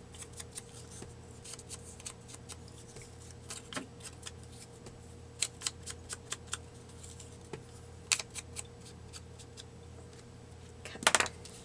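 Paper pieces being handled for a collage card: scattered light clicks and rustles as cut paper and ephemera are picked up and laid down, with a louder clatter near the end, over a faint steady hum.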